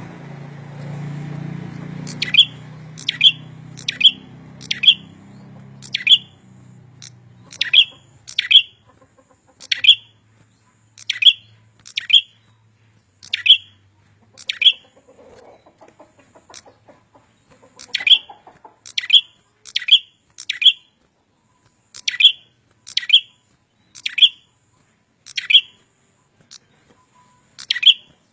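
Small songbird of the prinia kind calling a long series of short, sharp chirps, each sweeping down quickly, about one a second, in runs with brief pauses. A low background hum fades out in the first few seconds.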